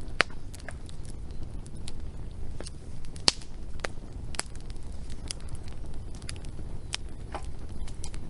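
Wood fire crackling: irregular sharp pops and snaps over a low steady rumble. The two loudest pops come about a quarter second in and about three seconds in.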